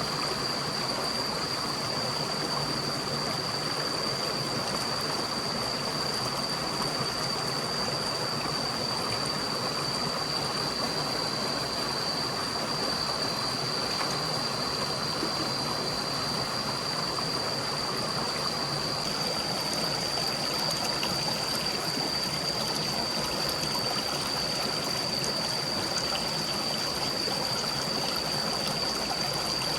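A forest stream flowing and trickling steadily, with a constant high-pitched whine over it.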